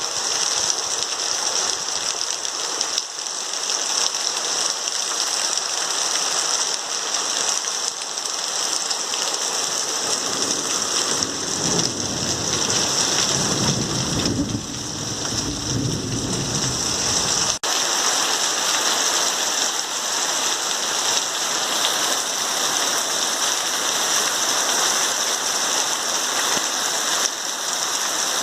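Heavy, steady rain pouring down. About twelve seconds in, a low rumble of thunder rises under it, lasts some five seconds and cuts off suddenly.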